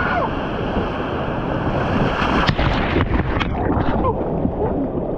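White-water river rapids rushing loudly around an inflatable raft. A cluster of sharp splashes or knocks comes between about two and a half and three and a half seconds in. Faint shouts are heard now and then.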